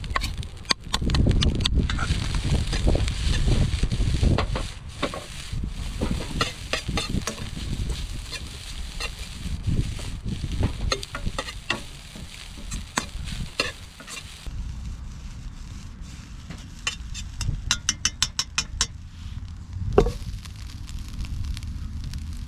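Food sizzling in an iron wok over a wood fire while a metal ladle stirs, scrapes and knocks against the pan. About two-thirds through the sizzling dies down, and a quick run of clicks follows.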